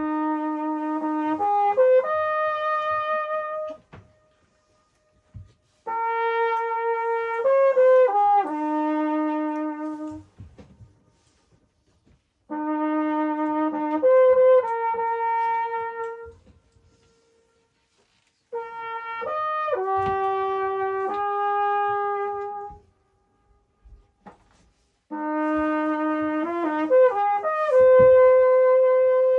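Trumpet playing a slow tune in five short phrases of a few held notes each, pausing about two seconds between phrases, played toward a rock wall so the echo can answer.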